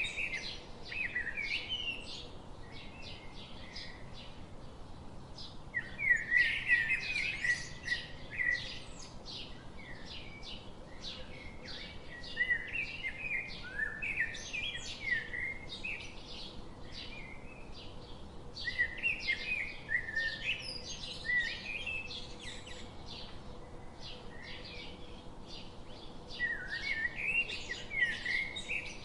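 Several small birds chirping and calling in quick overlapping notes, swelling into busier bouts every several seconds over a steady background hiss.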